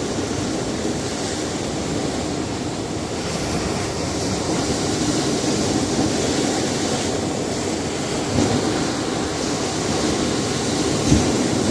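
Sea surf washing against a rocky shore, a steady rushing of water that swells and ebbs, with a couple of brief heavier wave strikes near the end.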